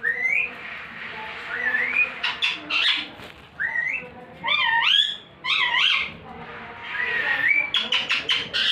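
Parrot whistling and calling: several short rising whistles, wavy warbling calls in the middle, and quick sharp chirps near the start and end.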